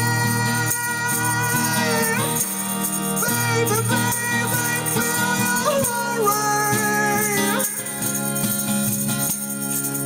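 Acoustic rock band playing: acoustic guitars and bass under a shaker, with a held melody line that slides between notes.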